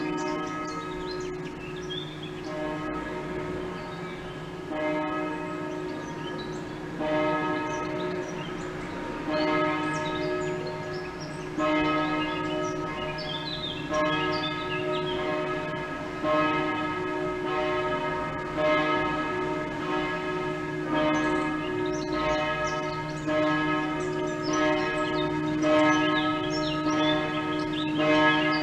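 Church bells ringing, a new strike about every two and a third seconds, each stroke ringing on into the next.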